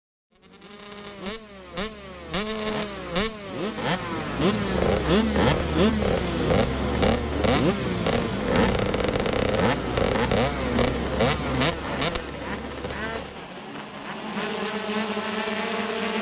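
Motocross bikes revving hard, several at once, their engine pitch repeatedly rising and falling. A deep steady rumble runs under them until about three seconds before the end, when it drops away and steadier tones take over.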